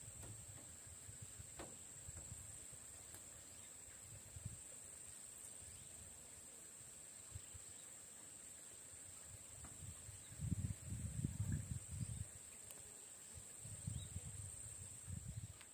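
A steady, high-pitched drone of insects, one unbroken tone. Low rumbles about ten seconds in and again near the end.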